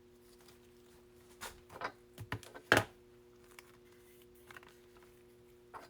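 A few short rustles and taps as a trading card and a plastic top loader are handled, the loudest a sharp tap a little before the middle, over a steady low hum.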